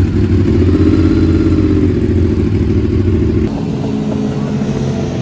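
Motorcycle engine running loud, its pitch rising and falling as it revs. About three and a half seconds in, the sound cuts abruptly to another, lower engine note.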